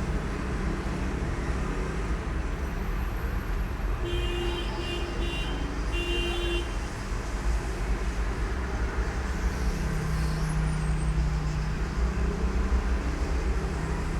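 Street traffic rumble, with a vehicle horn tooting three short times about four seconds in.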